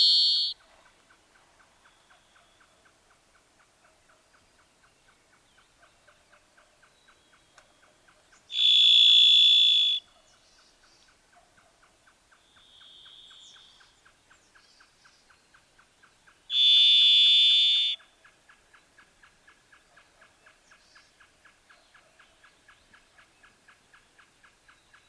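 Varied thrush singing: long single whistled notes, each held for about a second and a half and spaced several seconds apart. A note ends about half a second in, two clear notes follow about 9 and 17 seconds in, and a much fainter note falls between them.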